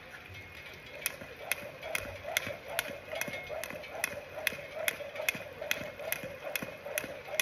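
Jump rope slapping the ground in a steady rhythm, a little over two strikes a second, starting about a second in.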